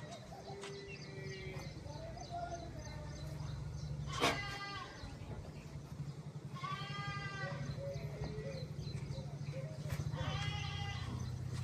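Livestock bleating several times, with calls about 4, 7 and 10 seconds in, over the steady low hum of an idling engine.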